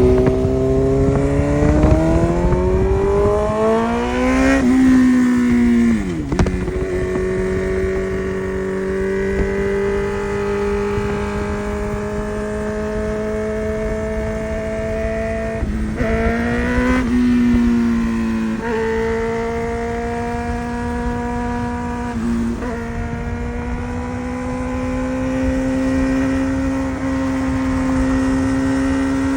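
Suzuki GSX-R sportbike engine under way: the revs climb over the first few seconds, drop at a gear change, then run fairly steady, with a few brief rises and dips around the middle.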